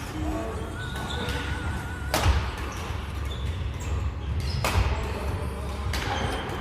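Two sharp racket hits about two and a half seconds apart during a doubles rally, with shoe squeaks on the court floor, in a large echoing hall.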